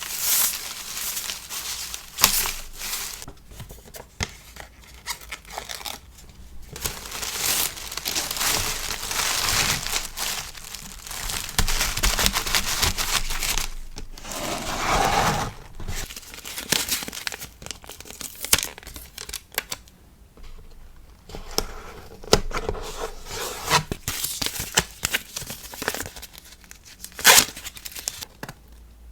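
Paper and plastic packaging being handled by hand while packing stickers: crinkling and rustling, with sharp crackles and stretches of tearing, in irregular strokes separated by brief pauses.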